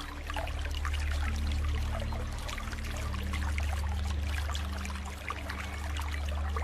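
Stream water trickling and splashing steadily, over soft light background music of low sustained bass notes and a few long held tones.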